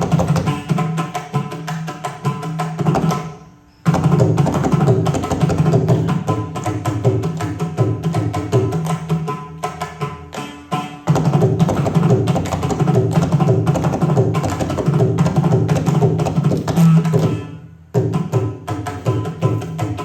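Carnatic percussion playing: fast, dense hand-drum strokes over steady held tones. It fades away briefly about four seconds in and again near the end, then comes straight back.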